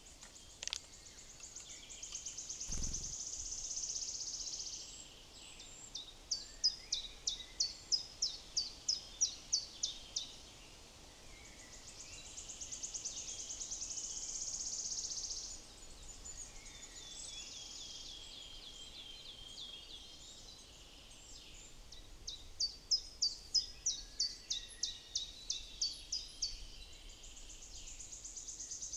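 Songbird song: high, buzzy trills alternating with runs of about a dozen sharp, rapid high notes, roughly three a second, the pattern heard twice over a quiet woodland background.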